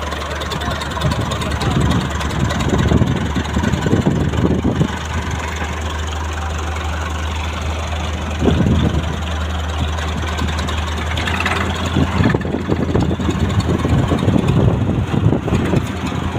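Tractor engine running at idle with a steady low hum, rising in louder surges several times.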